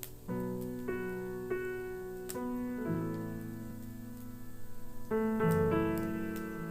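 Solo piano playing a slow, sustained ballad arrangement in full chords, with a louder chord change about five seconds in. Faint fireplace crackles pop now and then underneath.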